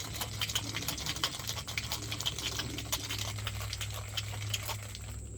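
Ice rattling in a lidded cocktail shaker being shaken hard, a fast, busy clatter that stops near the end.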